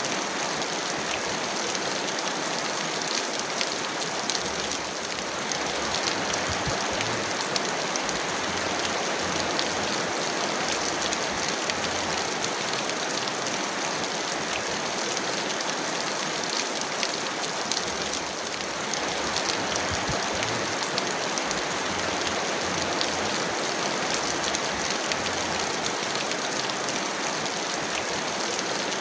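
Heavy rain falling steadily, a dense hiss flecked with many fine drop ticks, easing slightly for a moment twice.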